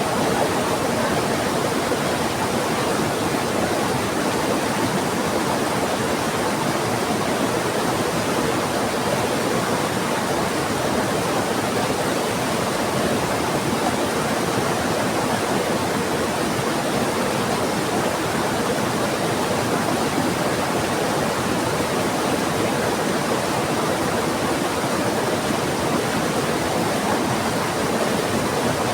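Heavy rain and a fast-flowing river rushing together in one steady, unbroken hiss.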